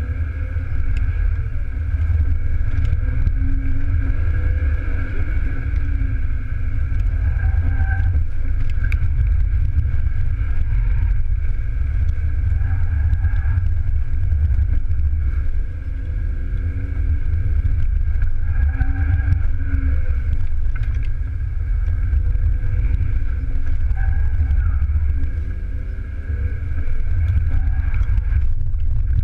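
BMW E36 320i's straight-six engine revving up and falling back again and again as the car is driven hard, heard from inside the cabin over a heavy low rumble. The engine eases off briefly twice, about halfway through and near the end.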